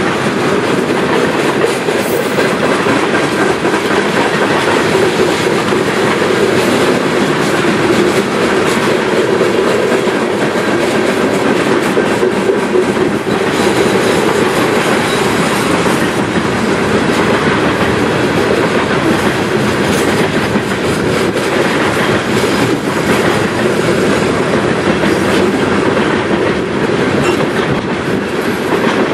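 Loaded freight train of open-top gondola cars rolling past at close range: steel wheels running on the rails in a loud, steady rumble, with scattered wheel clicks over the rail joints.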